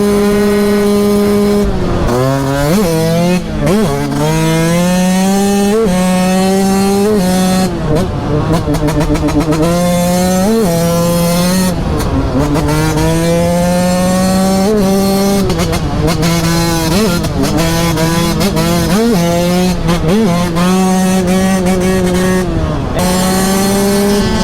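Yamaha YZ125 two-stroke single-cylinder engine running hard under a rider. Its pitch is held high at first, then climbs and falls again and again as the bike accelerates, shifts and rolls off the throttle.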